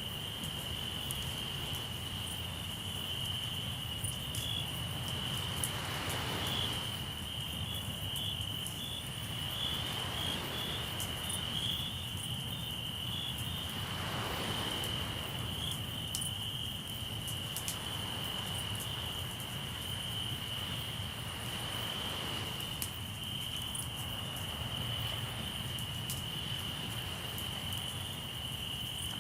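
Crickets trilling steadily and high, with sea waves washing in as swells of noise every few seconds and a campfire crackling with scattered small pops.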